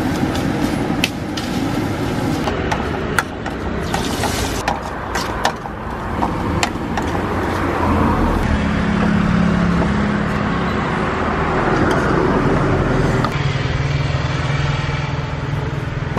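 Street-cart cooking: momos sizzling in hot oil, with sharp clinks of a wire frying basket and utensils, over road traffic. From about halfway a low steady hum takes over.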